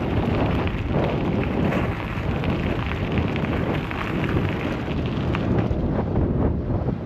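Wind buffeting a GoPro's microphone while cycling: a loud, unsteady low rumble of rushing air.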